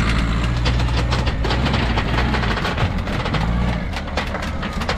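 Peugeot 308's engine running at low revs as the car drives up metal loading ramps onto a flatbed recovery truck. Repeated clanks and knocks from the tyres and ramps on the metal deck.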